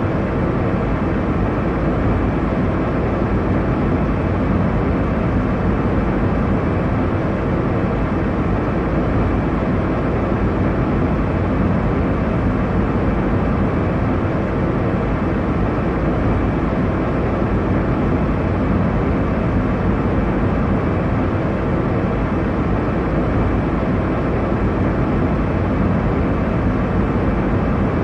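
Airliner cabin noise: a steady, low rush that holds even throughout.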